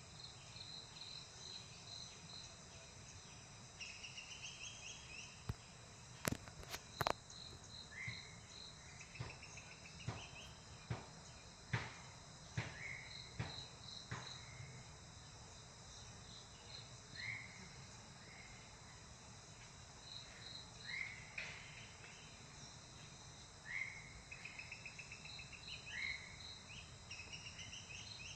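Insects chirring steadily in a fast high pulse, with short rising bird calls repeating throughout. A few sharp clicks come about six to seven seconds in and again near twelve seconds.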